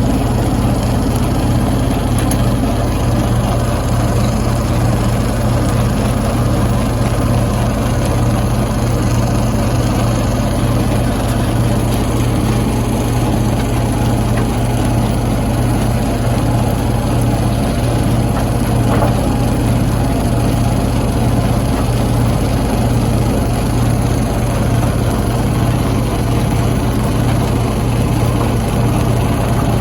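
Stone crusher machinery running steadily: a constant loud, low hum over a dense mechanical rumble, with no distinct rock impacts standing out.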